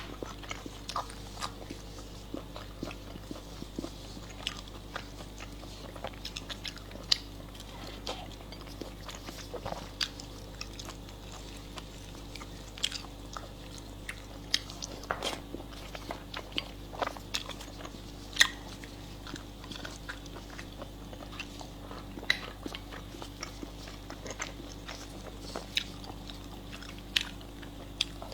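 Close-up eating sounds: a person biting and chewing food, with irregular sharp crunchy clicks every second or so over a steady low hum.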